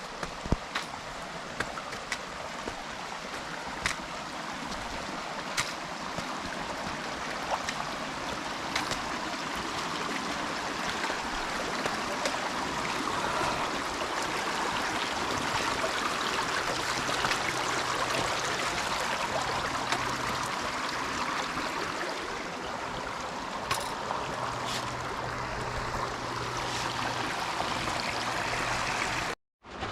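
Creek water running over rocks, a steady rush that swells in the middle, with faint sharp ticks every second or two. The sound cuts out briefly near the end.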